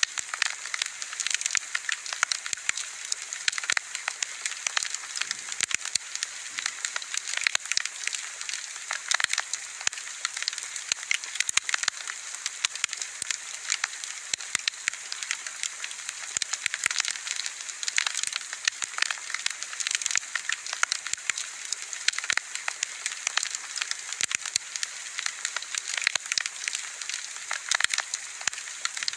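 Wood fire burning steadily, with dense, irregular crackles and pops over a hiss.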